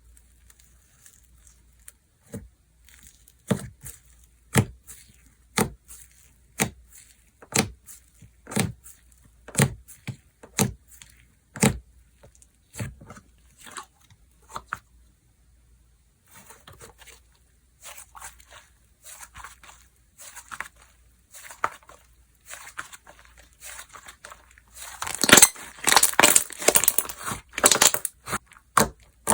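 Slime being worked by hand: sharp pops about once a second, then softer crackling and crinkling that grows into a louder, dense crackle in the last few seconds.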